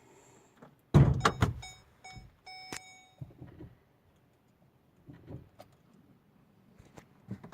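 A heavy thump about a second in, then rattling and clicks with a few short electronic beeps, typical of getting into a Chevrolet Onix, the key going in and the dashboard chime sounding before the engine is started.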